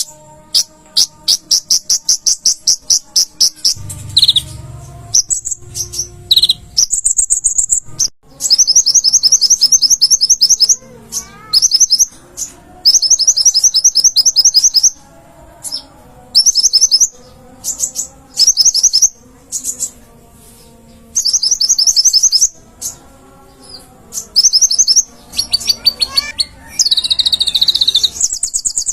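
Kolibri ninja (Van Hasselt's sunbird) singing loudly: fast, high-pitched trills of rapid chirps, in phrases of one to two seconds with short pauses between.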